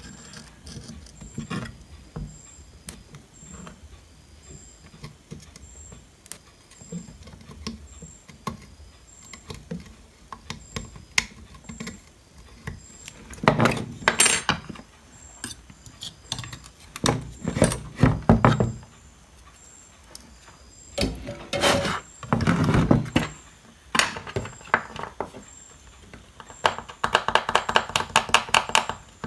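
Small hand tools clicking and scraping on a rusted power-supply circuit board, in short bursts with pauses and a fast run of scratching near the end: cleaning rust off the board.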